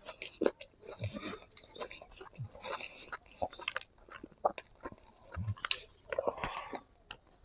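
Close-up eating sounds of spicy braised pig feet: irregular wet smacks, clicks and chewing as the skin and gristle are bitten and chewed, with a few sharper crunches.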